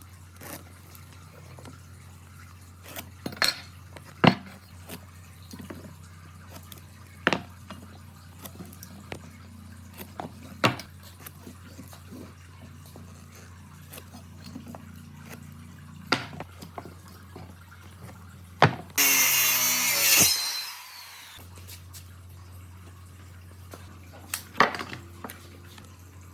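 Scattered sharp knocks and clinks of hard objects being handled over a steady low hum, with one loud hiss lasting about a second and a half near the end.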